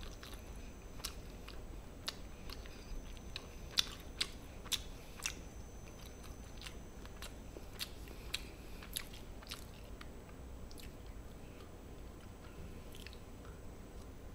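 A person chewing and biting food, with faint, scattered crisp crunching clicks. The clicks are sharpest about four to five seconds in and thin out after about ten seconds.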